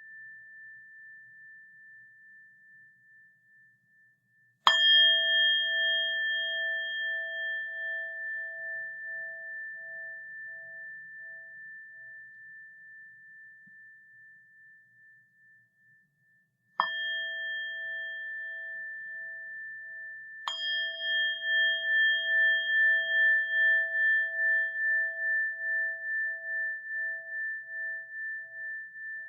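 A bell struck three times, about five, seventeen and twenty seconds in, each strike ringing on in a long, slowly fading tone that wavers in loudness; the ring of an earlier strike is dying away at the start.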